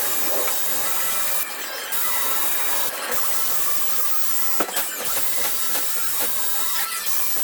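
Die grinder running steadily against the metal of a cylinder head's exhaust ports as they are ground out, a continuous hiss with a thin whine, easing off briefly a few times.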